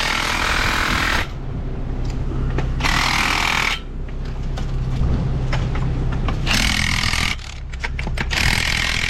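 Impact wrench running in four short bursts, each just under a second, tightening nuts on the valve's bolts. Under it is the steady low hum of an idling engine.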